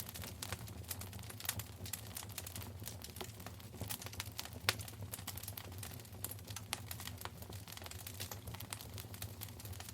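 Wood fire in a fireplace crackling, with dense, irregular small pops and one sharper pop about halfway through.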